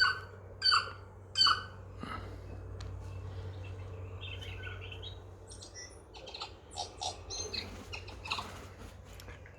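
Tui song: loud short notes repeated about two-thirds of a second apart near the start, then from about halfway in a varied run of clicks, chimes and whistles.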